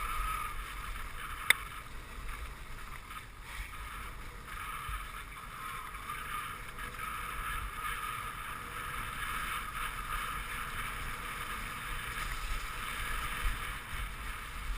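Dog sled moving along a snow trail: a steady hiss of the runners on snow with a low rumble of wind on the microphone, and one sharp click about a second and a half in.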